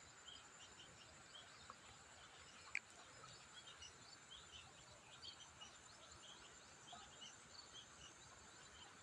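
Faint countryside ambience: many small birds chirping here and there over a steady high-pitched insect drone, with one short, sharper call about three seconds in.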